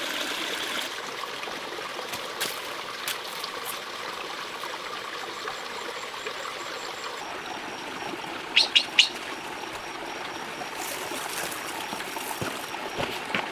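Steady trickle of flowing water, with a few faint clicks and three quick, sharp sounds close together just past the middle.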